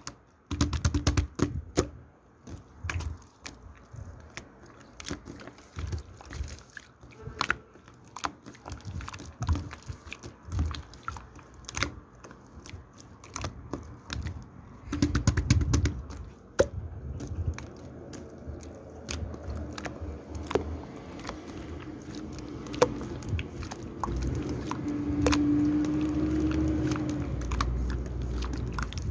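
A busy run of short clicks, taps and rustles from small objects being handled, with a few heavier low knocks and a steadier low hum building near the end.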